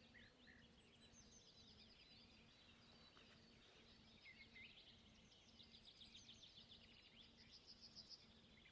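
Faint birdsong: scattered high chirps and whistles, with a rapid trill of repeated notes in the second half.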